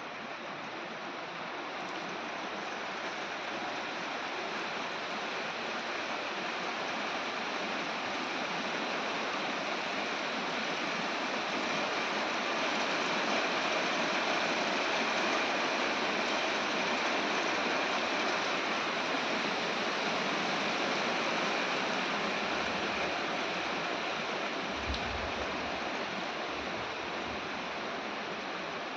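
Heavy rain falling in a steady hiss that swells and eases gently, with a brief low rumble near the end.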